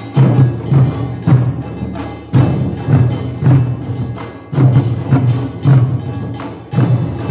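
Korean nongak (pungmul) percussion ensemble of drums and gongs playing loudly: heavy drum beats in a driving rhythm with dense clattering strokes between them.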